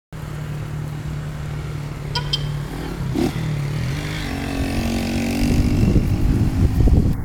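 A motor vehicle engine running: a steady hum, then a somewhat higher pitch, with a low rumble growing louder near the end.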